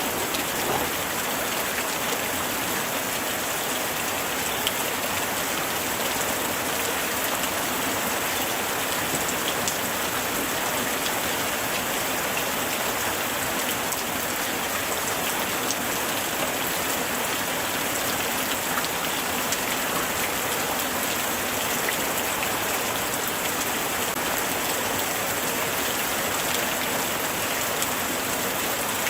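Steady light rain falling and pattering on surfaces, a dense even hiss of many small drop ticks.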